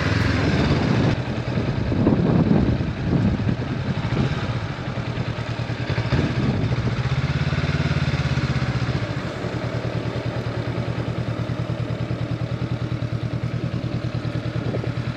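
Honda CB500X's parallel-twin motorcycle engine running. It is louder and uneven for the first several seconds, then settles into a steady, even idle about nine seconds in.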